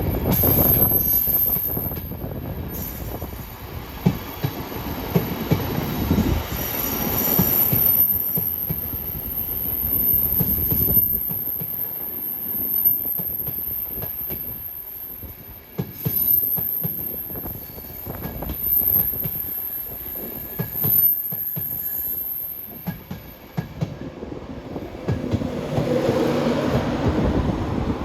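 A train moving through a station: wheels rumbling and clicking over the rail joints, with a thin high-pitched wheel squeal. Near the end the sound swells again with a low steady tone.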